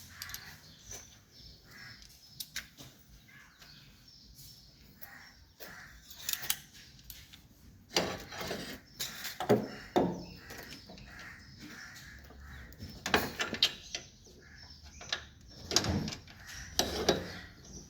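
Irregular knocks and clatter of hand tools being handled, with several louder clacks clustered about halfway through and again near the end.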